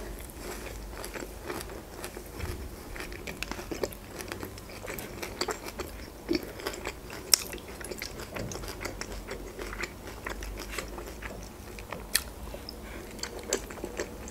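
Close-up chewing of boiled pelmeni, soft wet mouth sounds with many small clicks. A few sharper clicks, as a fork touches the plate.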